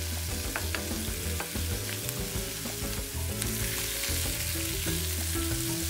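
Beets and onions sizzling in butter in a pan, with a few light clicks of stirring.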